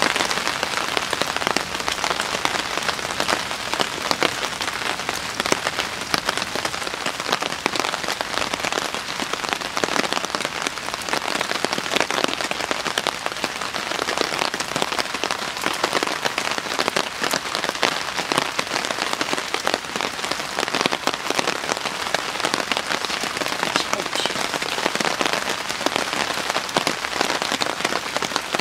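Steady rain pattering, a dense, even run of small taps with no let-up.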